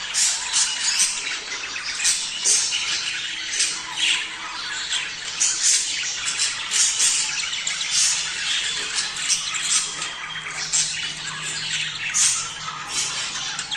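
A flock of budgerigars calling at once: a dense, continuous stream of short, overlapping high chirps and warbles with frequent louder calls standing out. This is the breeding-season chatter played to budgies to stimulate mating.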